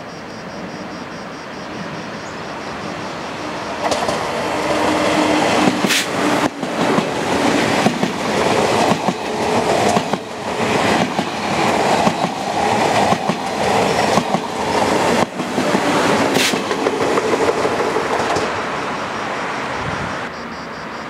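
TGV high-speed trainset passing close by: a steady rail rumble builds about four seconds in, then a run of sharp wheel clacks over the rail joints as the cars go past, fading away near the end.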